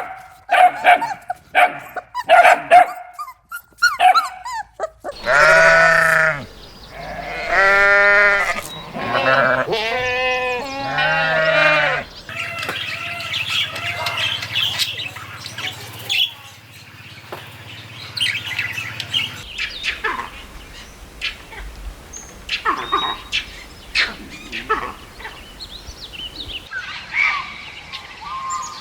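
Short dog yips for the first few seconds, then goats bleating: several long, loud, wavering calls. After that come quieter high chirps and clicks over a low steady hum.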